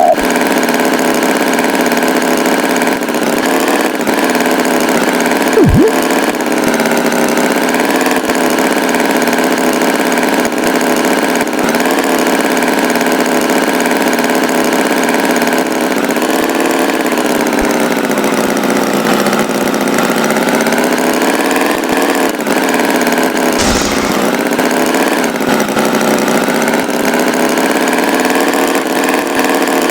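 Tractor engine idling steadily, its pitch drifting slowly up and down, with a brief knock about six seconds in and another near the end.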